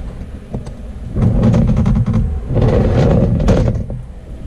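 Haas VF-3 CNC vertical mill running mechanically in two spells of a little over a second each, one about a second in and one about two and a half seconds in, with scattered clicks.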